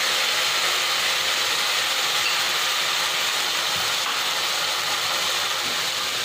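Ground onion-tomato gravy paste sizzling in hot oil in a kadai, a steady hiss.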